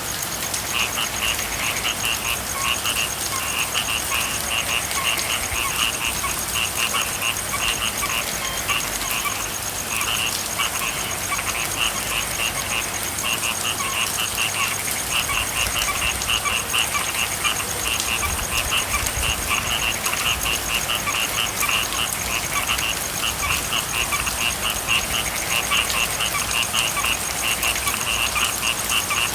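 A chorus of frogs calling continuously in quick repeated croaking pulses over steady falling rain.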